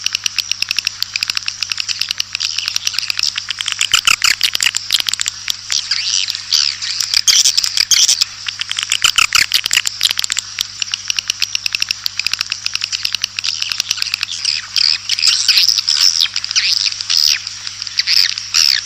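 Edible-nest swiftlets twittering and chirping in a dense, continuous chatter of many short calls and clicks: a swiftlet call track of the kind played to lure swiftlets into a nesting house. A steady low hum runs underneath.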